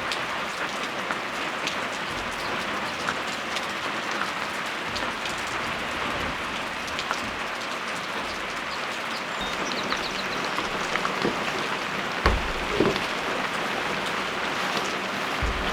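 Steady rain falling, a continuous hiss with scattered drops ticking, and a couple of dull thumps about twelve seconds in.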